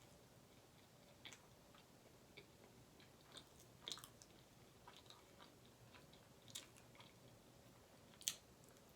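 Soft chewing from a person eating garlic naan and butter chicken: scattered faint wet mouth clicks, with one sharper click near the end.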